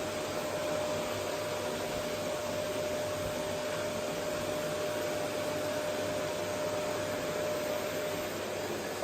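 Vacuum cleaner running steadily: an even rush of air with a steady whine from the motor over it, the whine fading out near the end.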